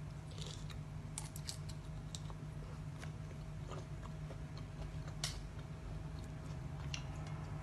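Close-up eating sounds: chewing and biting with scattered small crisp clicks, over a steady low hum.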